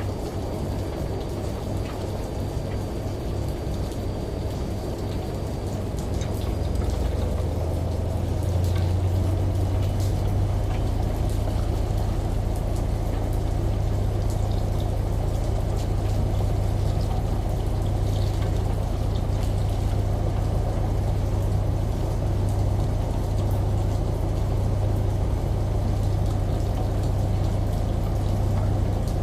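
Washing machine running with a steady low hum under a wash of rain and running water. It grows louder about eight seconds in, then stays steady.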